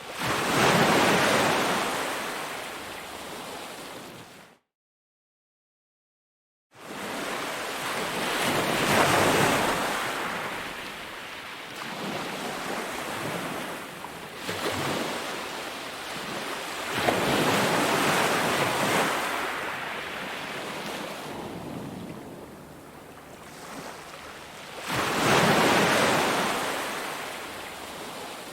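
Sea waves breaking and washing up on a beach, the surf swelling and fading about every eight or nine seconds. The sound cuts out completely for about two seconds, some four seconds in, then returns.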